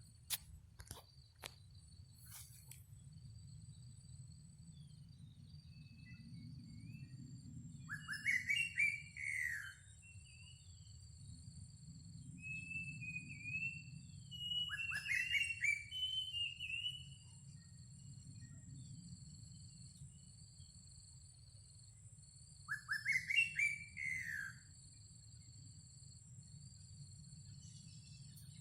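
Greater racket-tailed drongo calling in three loud bouts, about 8, 15 and 23 seconds in: quick runs of steeply falling, ringing notes. A steady high-pitched trill and a low rumble run behind.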